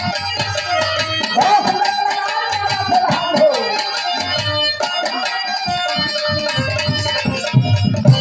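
Live Biraha folk music: an Indian hand drum beating a fast rhythm under a gliding melodic line, with bright metallic clicks on top.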